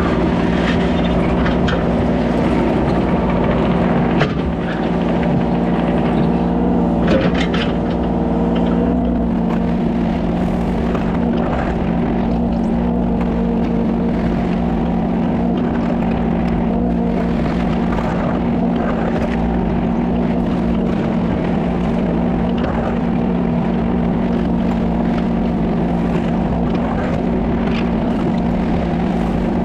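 Kubota 33 mini excavator's diesel engine running steadily at working revs, with scattered short clinks and scrapes from the machine working.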